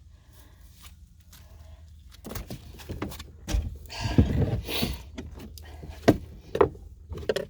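Old waterlogged pour-in flotation foam in a boat hull being pried and broken out with a hand tool: irregular scraping and crunching, with a few sharp knocks, starting after a couple of quiet seconds.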